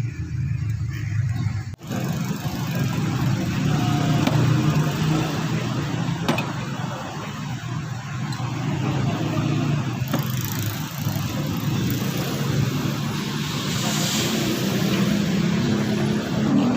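Mazda 3 four-cylinder engine running, with the revs rising near the end. The engine is being diagnosed for a random multiple-cylinder misfire (P0300).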